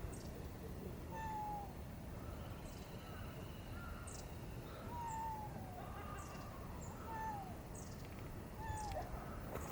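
A cat meowing four times: short, separate meows, each falling in pitch.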